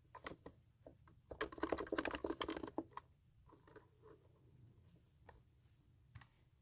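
Computer keyboard typing for ASMR: a fast run of keystrokes about a second in, lasting a second and a half, then scattered single key presses.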